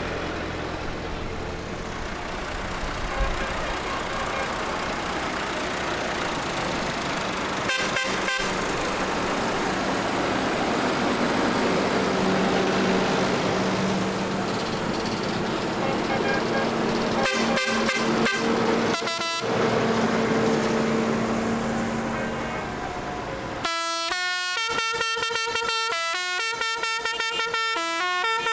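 Tractor engines running as a line of tractors goes by, with steady horn tones sounded for several seconds in the middle. Near the end the sound changes abruptly to a run of clear, separate notes like a musical horn or a tune.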